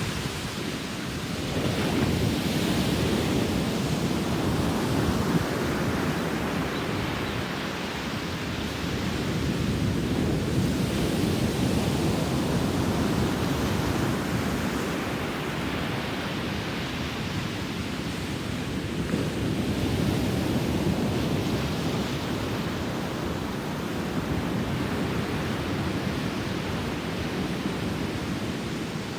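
Ocean surf breaking on a beach, a steady wash of noise that swells and eases every several seconds as the waves come in.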